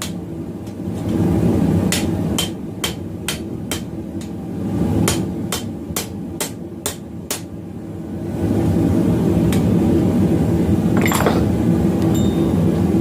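Hand hammer striking hot round steel bar on an anvil while a knot is forged into it, in runs of evenly spaced blows about two to three a second with short pauses between. A steady rushing noise underneath grows louder in the last third, when the hammering mostly stops.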